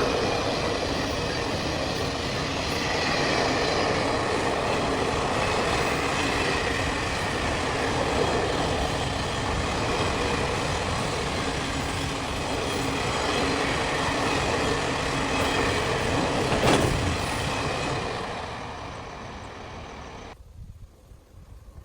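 A train running along the rails with a steady rumble and wheel noise, and one sharp click about seventeen seconds in. It fades and cuts off near the end.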